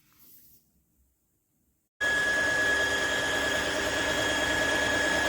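Wet-dry floor vacuum's motor running with a steady high whine over a loud fan hiss, starting suddenly about two seconds in.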